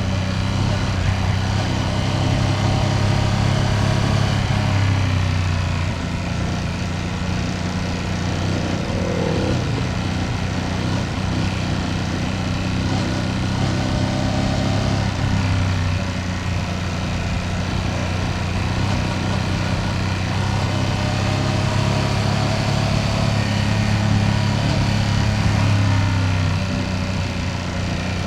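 Ducati Panigale V2S's V-twin engine running steadily under way, its pitch rising and falling a little several times as the revs change.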